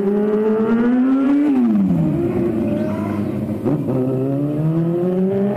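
Stunt motorcycle's engine revving hard during a burnout: the pitch climbs for about a second and a half, drops off sharply, then climbs again over the last couple of seconds.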